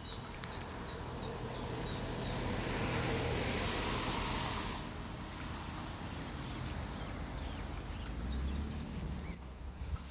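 Outdoor ambience: a run of high, falling bird peeps, a few a second, in the first second or so, then a rush of noise that swells for a few seconds and stops about five seconds in, over a low wind rumble. A few faint chirps come near the end.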